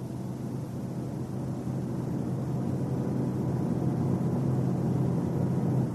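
Car driving at road speed: a steady low drone of road and drivetrain noise that slowly grows louder.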